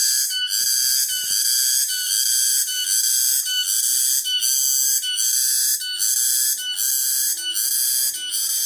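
Tonggeret cicada calling, a shrill buzzing song that pulses in short repeated phrases about twice a second.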